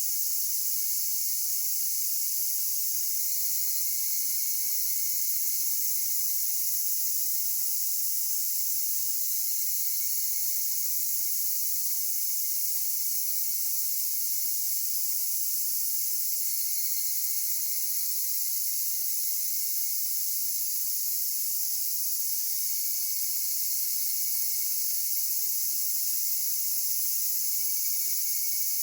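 Steady, high-pitched chorus of cicadas and other singing insects, an unbroken shrill hum.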